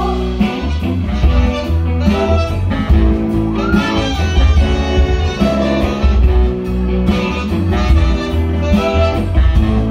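Live rhythm-and-blues band playing an instrumental passage, with guitar prominent over bass and drums.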